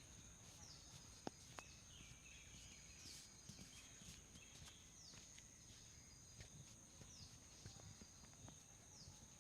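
Near silence: faint background with a steady high-pitched whine, a short falling chirp about every two seconds, and scattered faint clicks.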